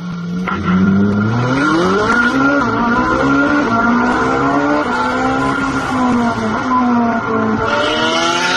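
High-revving sports car engines accelerating hard, heard from inside a car's cabin: the engine note climbs steeply about a second in, then stays high, dropping and climbing again at gear changes near the end.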